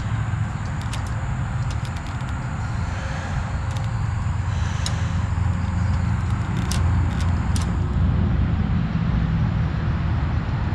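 A motor running steadily with a low rumble, with a few light clicks over it now and then.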